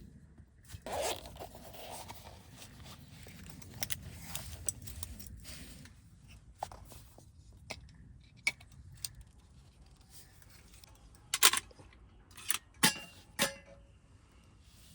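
Packaging and small items being handled: rustling and scraping, a louder scrape about a second in, and four sharp clicks or knocks near the end.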